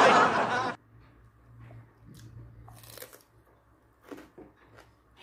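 Loud crunching of crisp food being bitten and chewed, which stops abruptly under a second in; after it only faint clicks and small chewing sounds.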